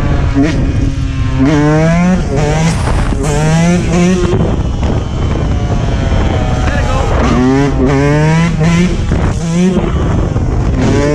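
Dirt bike engine revving hard, its pitch climbing in several quick runs and dropping back each time.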